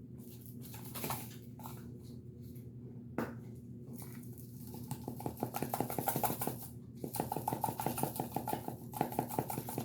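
A container of dry seasoning rub is handled with a few separate clicks, then shaken in rapid rattling bursts from about halfway through, with a short pause partway. The rub has been sitting and clumped, so it is being shaken loose to get it to pour.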